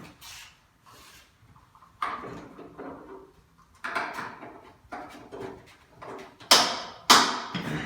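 Handling noises: scrapes and knocks, ending in two sharp clunks about half a second apart near the end.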